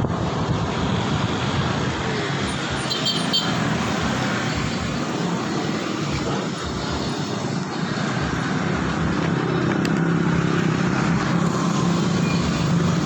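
Road traffic noise heard while riding through city streets, a steady rush of vehicles and wind, with a low engine hum growing louder in the second half.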